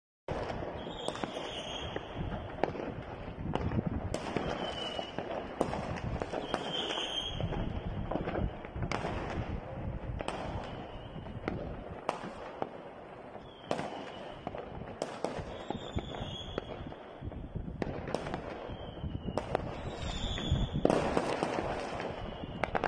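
Many fireworks going off across a city: bangs and crackles near and far at uneven intervals over a steady rumble of distant explosions, with short high whistles now and then and the busiest, loudest stretch near the end.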